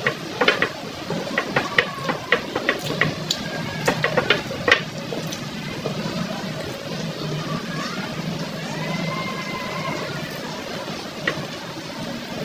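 Close-miked eating sounds: a quick run of wet lip smacks and chewing clicks in the first five seconds as fried pork chop is eaten by hand. Quieter chewing follows over a steady low hum.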